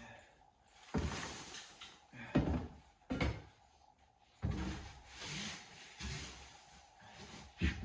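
Handling and scraping while a chicken brooder box is cleaned out: several dull knocks and bumps with scraping and rustling between them.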